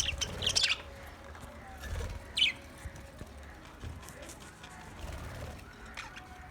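Budgerigars chirping: a quick cluster of short chirps at the start, a single chirp about two and a half seconds in, and a fainter one near the end.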